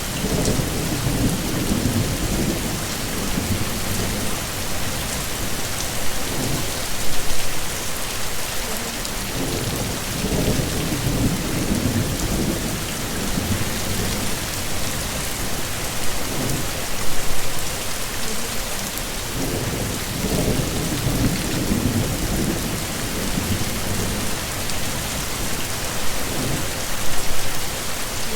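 Heavy, steady rain pattering on surfaces, with low rolling rumbles of thunder that swell and fade about every ten seconds.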